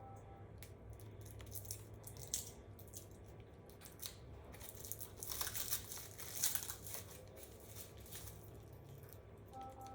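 Plastic packaging film being peeled and crinkled off a printer part, a run of irregular crackles that gets busiest about halfway through.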